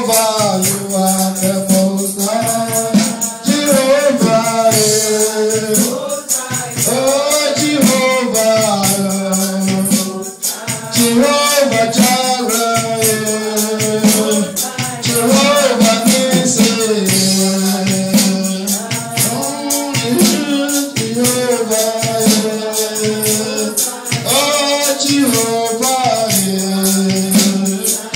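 Gospel worship song sung by voices over a fast, steady tambourine jingle.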